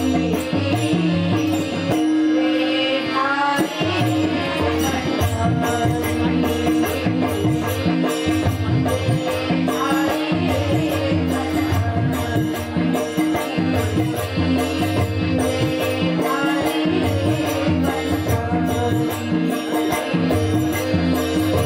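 Marathi devotional bhajan music: drums and small hand cymbals keeping a steady beat of about three strokes a second over a held drone note.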